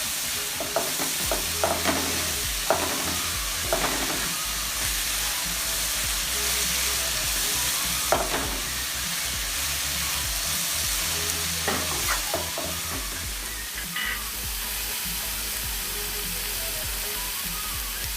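Chopped onions with crushed ginger, green chilli and garlic sizzling in coconut oil in a pan while being stirred, the spoon now and then clicking and scraping against the pan.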